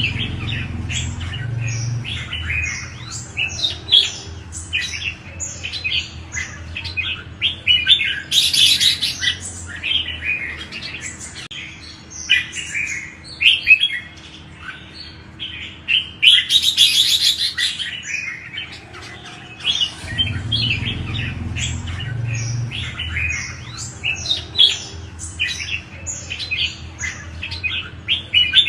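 Red-whiskered bulbuls singing: a busy, continuous run of short chirping notes, broken by two louder, denser bursts at about 8 seconds and again from about 16 to 18 seconds.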